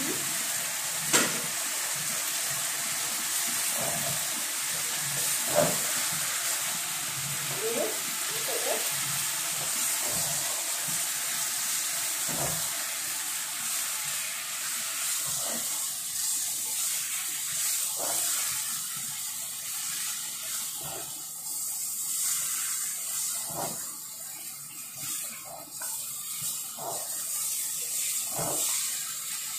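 Chicken and spice paste sizzling in a pot while a spatula stirs, with occasional knocks and scrapes of the spatula against the pot. The sizzle thins in the second half.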